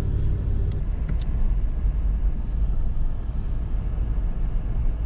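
Steady low rumble of a truck driving, engine and road noise together, with a few faint ticks.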